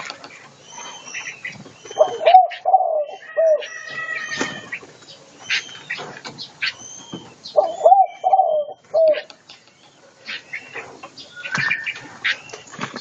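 Birds in an aviary: a dove cooing in short low phrases, twice, over high chirps and whistled calls from smaller songbirds, with a few sharp flutters of wings.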